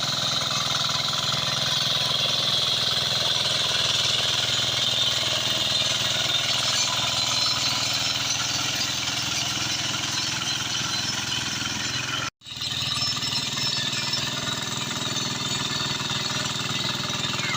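Walk-behind tractor engine running steadily with a rapid hammering chug while pulling a harrow. The sound cuts out for an instant about twelve seconds in, then picks up again.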